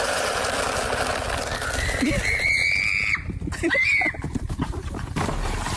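A high-pitched animal cry held for about a second, then a shorter one about a second later, over steady background noise.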